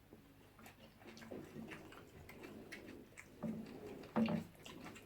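Eating sounds from a close microphone: a run of small clicks from chewing and mouth noises as fish and rice are eaten, with two louder bursts about three and a half and four seconds in.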